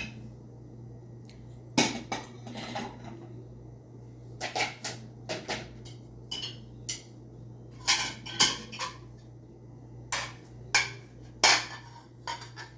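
Dishes and utensils being handled, giving a series of irregular sharp clinks and knocks, some in quick pairs, over a steady low hum.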